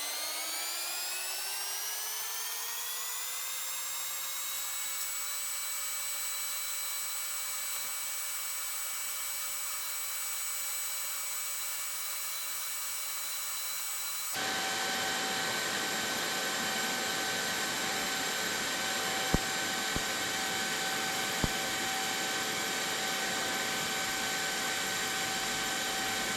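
TIG welding on stainless pipe: a steady electrical whine with several even tones, rising in pitch over the first few seconds and then holding. About halfway it switches abruptly to a hissier sound with different steady tones, with a few sharp clicks.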